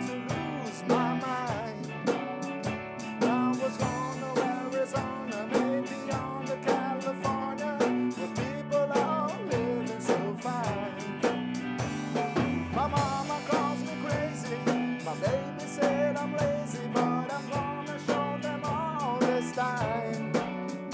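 Blues band playing an instrumental passage: a lead guitar solo with bent notes over a steady drum-kit beat.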